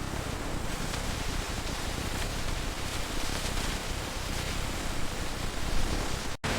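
Steady hissing noise of factory packaging machinery, even and without a clear rhythm. It cuts out sharply for an instant near the end and resumes straight after.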